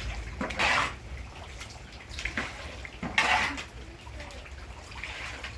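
Water splashing in short bursts, with light clinks of pots and dishes, over a steady low rumble.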